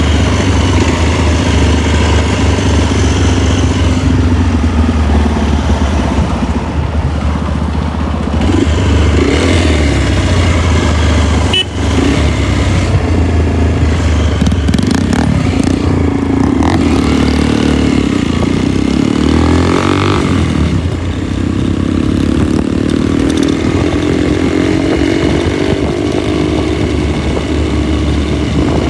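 Motorcycle engine running while riding along a road, under a steady rush of wind and road noise; the engine pitch rises and falls a few times in the second half.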